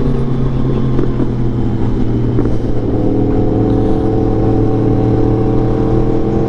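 Sport motorcycle's inline-four engine running under way, heard from the bike as it rides, a steady pitched note over a rough rumble. The engine note changes about halfway through and then holds steady.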